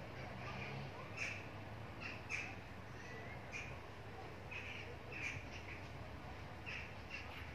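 Small birds chirping: about a dozen short, sharp chirps at irregular spacing, over a faint low background rumble.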